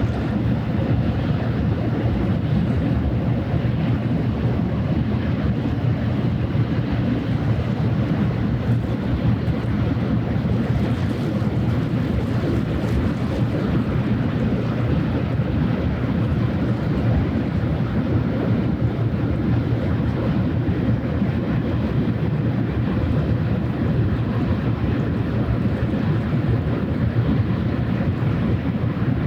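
A passing ship's diesel engine drones steadily at a low pitch under a constant rush of wind and water noise.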